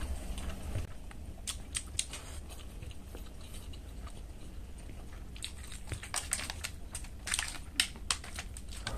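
Close-miked mouth eating sounds: chewing with sharp crunching bites, a few around two seconds in and a dense run from about five to eight seconds in.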